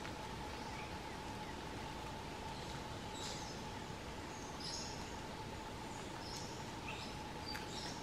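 A few short, high bird chirps scattered over a faint, steady background hiss, with a thin steady tone that does not change.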